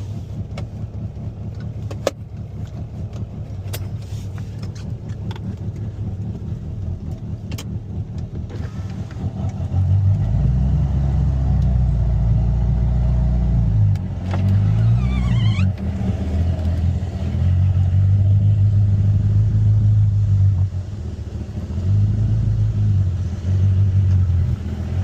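Turbocharged 4G63 four-cylinder of a 1995 Mitsubishi Eclipse GSX running at low revs, growing louder about ten seconds in as it is driven off gently. A brief falling squeak about fifteen seconds in.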